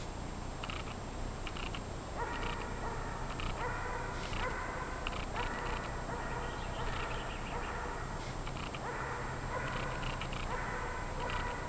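A dog barking and whining in a repeated string of drawn-out yelps, each about half a second to a second long, starting about two seconds in.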